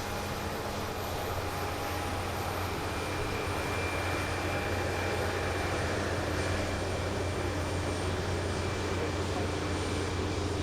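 Jet aircraft engines running steadily at low power on the ground: a steady rumble with faint high whining tones, getting a little louder about a second and a half in.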